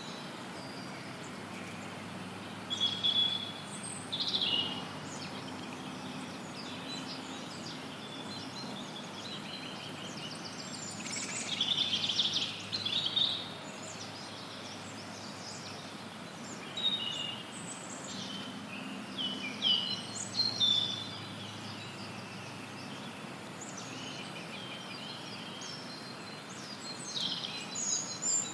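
Forest birds singing short, high chirping phrases in clusters every few seconds over a steady, even hiss of added white noise.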